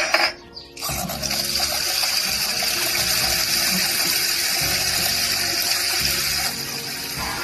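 Water running in a steady gush, like a tap filling a container, easing off about six and a half seconds in. A short knock sounds right at the start.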